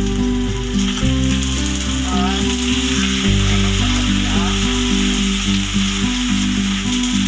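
Food sizzling in hot oil in a wok, stirred with a spoon, a steady frying hiss under background music.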